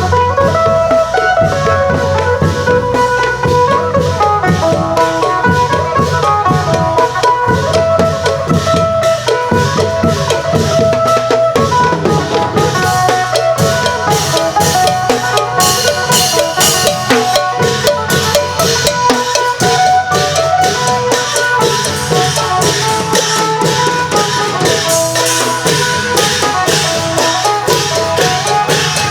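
Isan klong yao long drums and cymbals playing a steady, driving procession rhythm under a fast melody of short plucked notes on the phin, the Isan lute.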